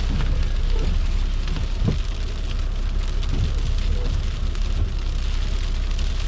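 Car driving on a wet, snow-covered road in a snowstorm: a steady low rumble under a rain-like hiss, with scattered small ticks.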